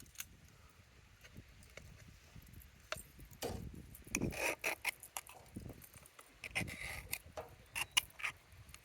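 A filled pie iron being clamped shut and handled: rubbing and scraping with scattered clicks and knocks, busiest in the second half.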